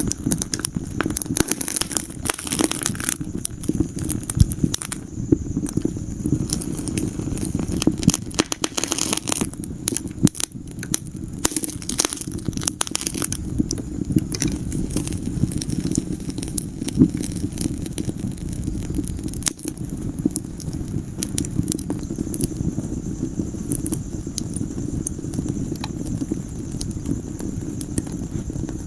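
Wood fire burning in a fireplace: a steady low rumble of flames with frequent sharp crackles and pops, thicker in the first half.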